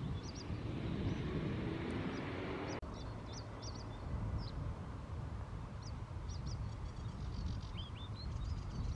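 Small birds chirping with short high calls over a steady low rumble of outdoor background noise. The background changes abruptly about three seconds in.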